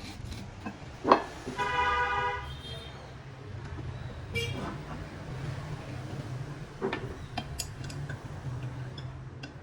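Metalworking sounds over a steady low hum: a sharp metal clank about a second in, followed by a short horn-like tone, then a few light metal taps later on.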